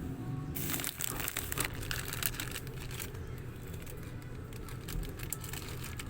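Plastic packaging crinkling and rustling in irregular crackles as it is handled, starting about half a second in, over a steady low hum.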